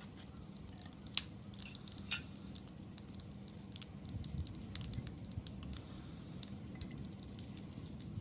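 Wood campfire crackling: irregular pops and snaps over a low rumble, with one sharper pop about a second in.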